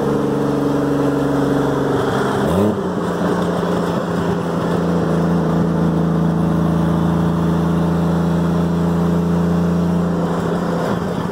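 Toyota Aristo's 1JZ-GTE VVT-i turbocharged straight-six running with no exhaust, gas dumping straight out of the turbo elbow, heard from a car alongside: a loud, steady engine drone. About two and a half seconds in, its pitch climbs quickly and then holds steady on a higher note.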